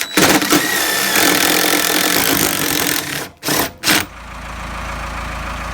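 Impact gun running in a long burst of about three seconds, then two short bursts. After that a steadier, lower rumble takes over.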